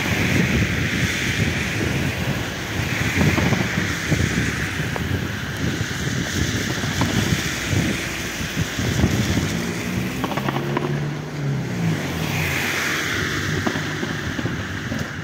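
Fireworks display going off in a rapid, continuous barrage of bangs and crackle, with a hissing rush from rising rockets a few times.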